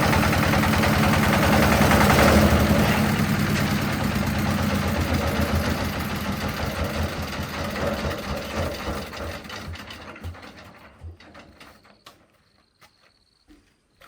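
A small engine running steadily, then fading out gradually over several seconds until nearly silent.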